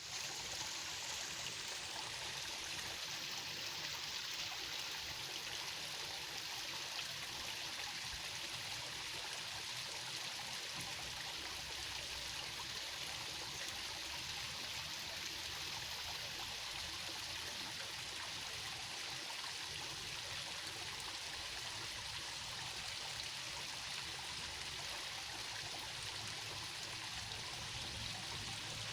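Running water flowing steadily, as in a stream, making an even, unchanging rush.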